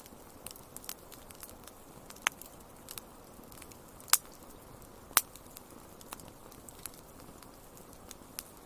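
Wood fire crackling: irregular small snaps over a soft hiss, with three louder pops around two, four and five seconds in.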